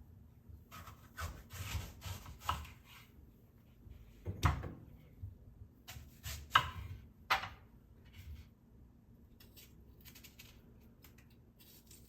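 Irregular light knocks, taps and rubbing scrapes of household items being handled, several sharper taps standing out among softer shuffling.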